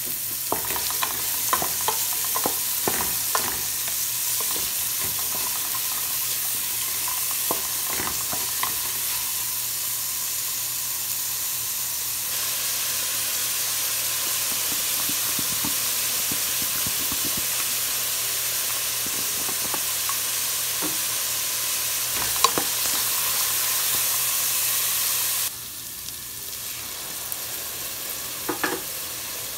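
Diced carrots, green beans and onion sizzling as they fry in a metal pot, with a utensil now and then knocking and scraping against the pot. The sizzle drops suddenly about 25 seconds in.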